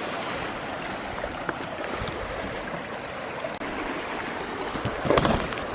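Steady rushing of a fast-flowing mountain stream, with a few brief knocks near the end.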